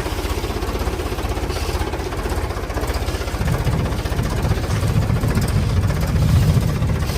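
A vehicle engine running with a rapid, even knocking pulse, its low rumble growing heavier about three and a half seconds in.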